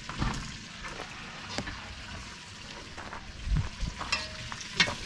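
Meat frying with a steady sizzle, broken by a few sharp knocks and clatters of pot or utensil, the loudest near the end.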